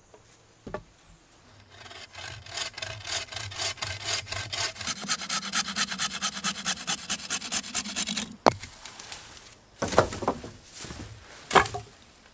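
Hand saw cutting through wood with rapid, even back-and-forth strokes. The sawing stops with a sharp click, then two louder knocks follow.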